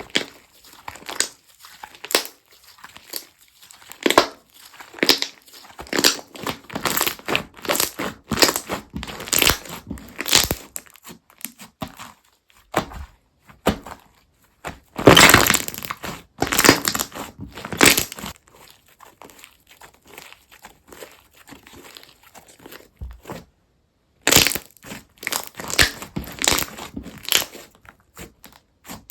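Crunchy slime being squeezed and pressed by hand, giving dense runs of crackling, crinkling pops. The crackles come in spells with short lulls between, loudest a little past the middle.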